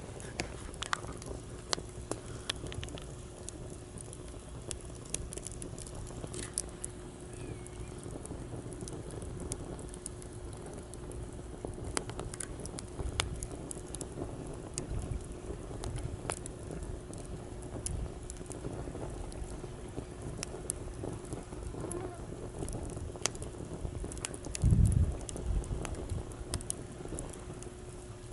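Wood campfire crackling, with frequent sharp pops and snaps over a low, steady rumble of surf. A faint steady hum runs underneath, and a loud low thump comes near the end.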